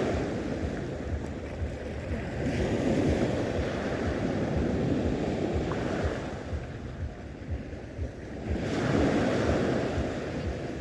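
Sea waves washing onto the shore, the hiss swelling and falling away in slow surges, with wind buffeting the microphone.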